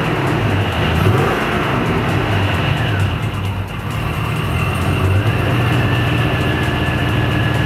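Supercharged V8 of a 2003 Chevrolet Avalanche Z71 (Magnuson MP112 supercharger) running under changing revs: the pitch climbs for about a second, drops back, eases off around the middle, then holds steady. From there a high steady whine rides over the engine, typical of the supercharger.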